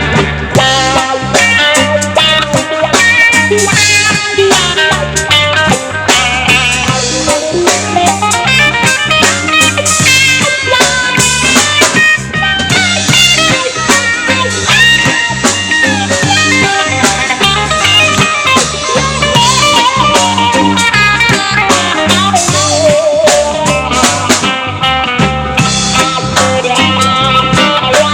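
Live band playing an instrumental passage of a song: guitar over a drum kit and a steady low end.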